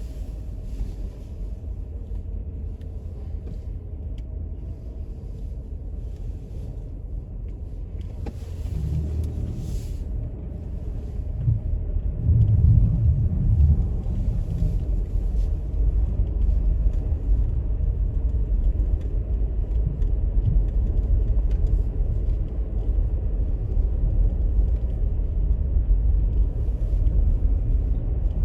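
Steady low rumble of a car on the road, growing louder about twelve seconds in.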